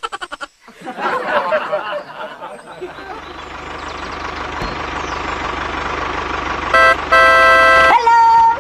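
Vehicle engine running steadily with an even low pulse, then a horn honking loudly near the end: a short toot followed by a longer blast.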